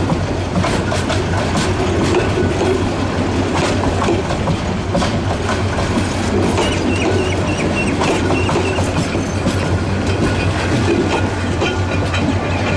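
Meter-gauge passenger coaches rolling past close by: a steady rumble with the wheels clicking over rail joints many times.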